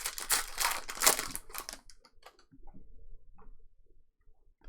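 Trading cards being handled: a dense, crisp rustling with sharp little clicks for about two seconds, then a few faint ticks.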